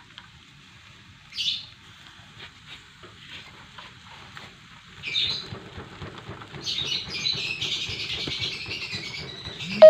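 Lovebirds chirping: short high calls about a second and a half in and again around five seconds, then a run of rapid chattering for the last three seconds.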